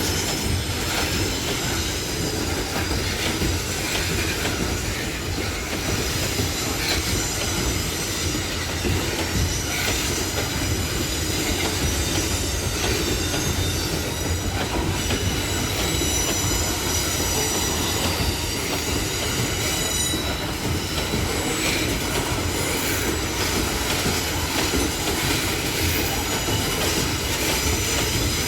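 Loaded freight wagons of a long train rolling past at close range: a steady, loud rumble of wheels on rail with high-pitched squeal from the wheels that comes and goes.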